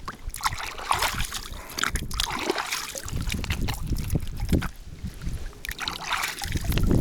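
River water splashing and trickling in irregular bursts, with wind rumbling on the microphone.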